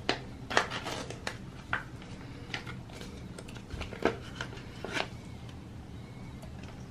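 A series of light clicks and knocks, as of small objects being handled and set down, over a low steady hum.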